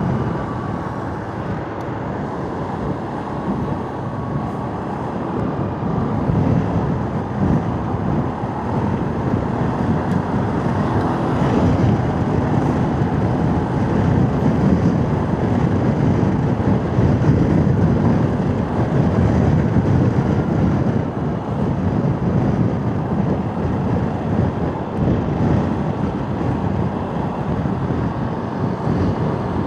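Motorcycle on the move in road traffic: engine and road noise with wind rushing over the microphone, getting louder about six seconds in as the pace picks up.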